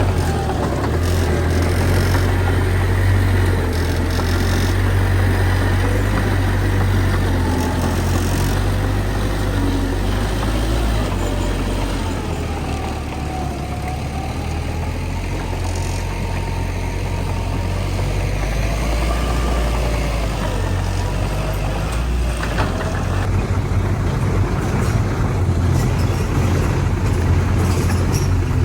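Bulldozer's diesel engine running steadily with a deep rumble as it works soil, with a faint whine above it that wavers up and down in pitch.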